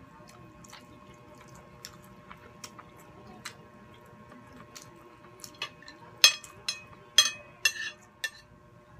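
Eating sounds at close range: soft chewing and mouth clicks as food is eaten by hand, with a few louder sharp smacks about six to eight seconds in.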